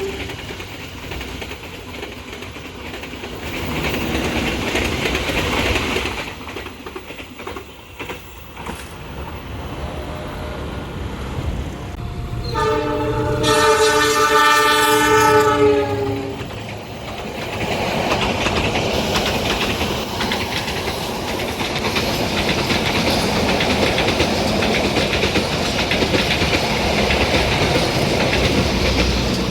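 Train horn sounding: a brief toot about 12 seconds in, then a loud chord of several notes held for about three seconds. After it the train passes with a steady rumble of wheels on the rails.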